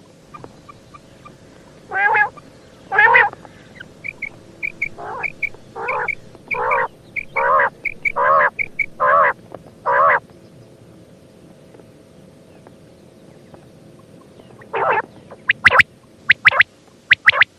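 Female common quail calling: a series of about nine loud calls roughly one a second, with soft high chirps between them. After a pause, a quick run of sharp sweeping notes comes near the end.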